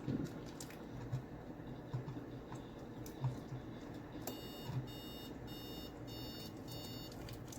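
An electronic appliance beeper sounding a run of about six short, high beeps, roughly two a second, starting a little past halfway, over soft low thuds.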